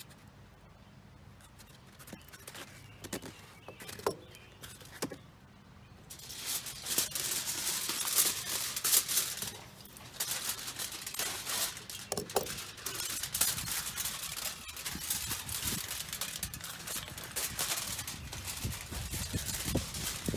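Aluminum foil being crumpled and wrapped by hand: a few separate clicks and crinkles at first, then from about six seconds in a continuous crackling crinkle.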